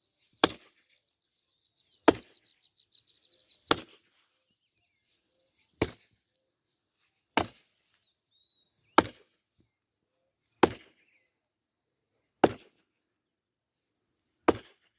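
Axe chopping into hard wood, nine heavy strikes spaced about one and a half to two seconds apart.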